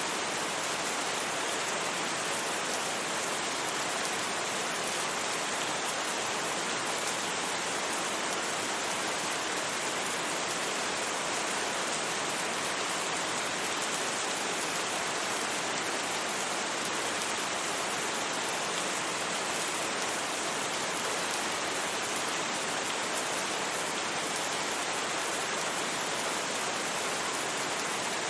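Steady rain falling, an even, unbroken hiss with no thunder and no single drops standing out.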